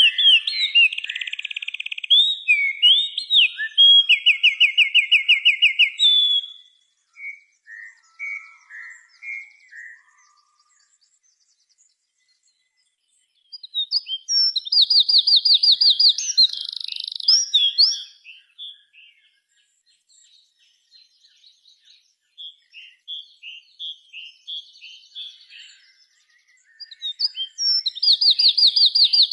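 A small songbird singing in loud bouts of fast trills and chirps, about every thirteen seconds, with softer scattered chirps between and a short silent spell in the middle.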